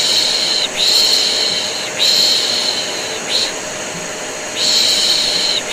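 Rhythmic human shushing, long "shhh" strokes about a second each with a short "sh" between groups, over the steady hum and rush of a running vacuum cleaner: a white-noise mix for soothing a colicky baby to sleep.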